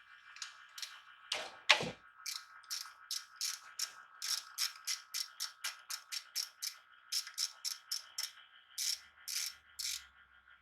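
Ratchet wrench clicking in short repeated strokes, about two to three a second, working the 12 mm engine-oil drain bolt on a Mametora cultivator. Two sharp metal knocks come about a second and a half in.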